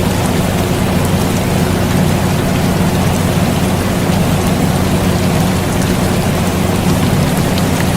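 Air conditioner running with a steady low hum, mixed with a constant hiss of falling rain with scattered drop ticks.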